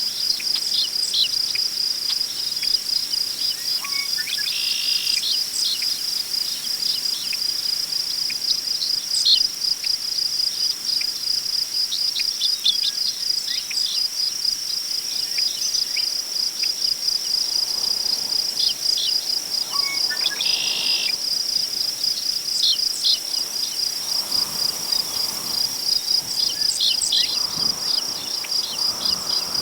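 Crickets chirping in a fast, even, high pulsing trill, with many short bird chirps scattered over it and two brief buzzy bird calls. In the second half, soft gusts of wind rustle through tall grass.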